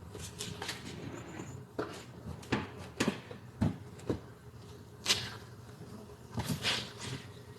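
Irregular knocks, clicks and light rattles of hands and tools working on car interior parts, about a dozen separate strikes at uneven spacing.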